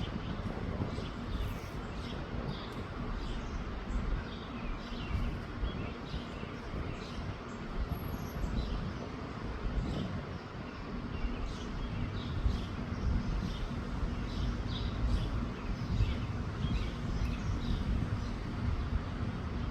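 Wind buffeting the microphone in a steady, gusting low rumble, with small birds chirping on and off throughout.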